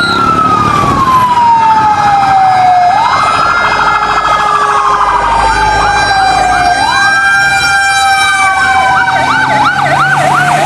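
Fire-engine siren wailing, a slow rise and long fall in pitch that repeats about every four seconds. A fast yelping warble joins in near the end.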